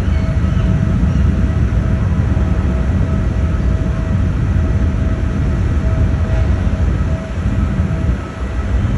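Heavy diesel engine running with a steady low rumble and a faint steady whine above it.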